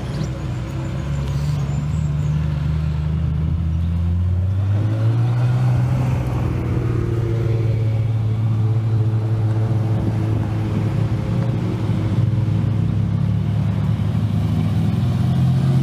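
Sports car engines from a slow queue of cars, among them a Ferrari F355 and a Jaguar F-Type, running at low speed as they pull out one after another. It is a deep, steady engine note that rises in pitch about five seconds in and then holds.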